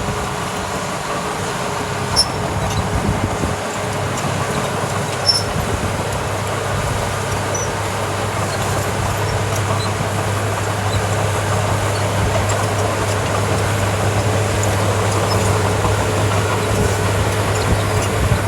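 Small crawler bulldozer's diesel engine running steadily, a deep hum that grows a little stronger from about six seconds in. There are two sharp clicks, at about two and five seconds.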